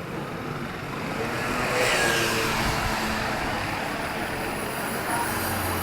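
A motor vehicle driving past on a town street. It is loudest about two seconds in, its pitch dropping as it goes by, then it fades slowly under steady traffic noise.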